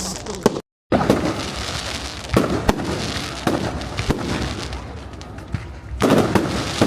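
Aerial fireworks going off: a string of sharp bangs over a steady crackle, with a cluster of louder bursts near the end. The sound cuts out completely for a moment about half a second in.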